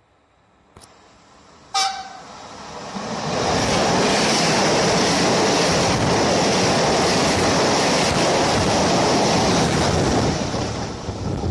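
An Italian regional push-pull train, a cab car leading and an E.464 electric locomotive pushing at the rear, gives one short horn toot about two seconds in. It then passes close by at speed: a loud steady rush of wheels and carriages that tails off near the end.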